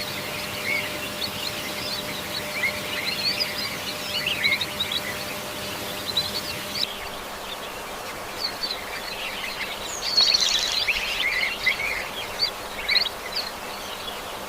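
Many small birds chirping in quick short notes over a steady hiss of forest ambience, busiest and loudest about ten seconds in.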